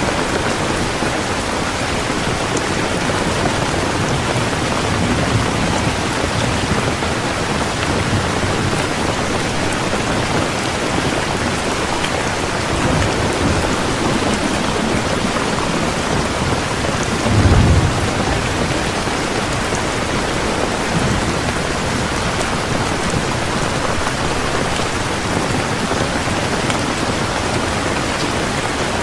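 Heavy rain falling steadily, with low rumbles of thunder past the middle, the strongest a short one a little after halfway.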